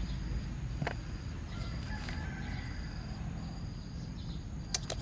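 Outdoor ambience after rain: a high, thin insect chirp repeating about once a second over a low steady rumble, with a few sharp clicks near the end.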